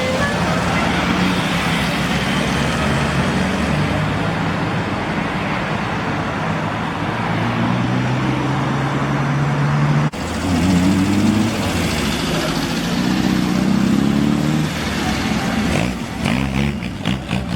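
Classic cars' engines running as they drive past, with engine pitch rising and falling as cars pull away and accelerate.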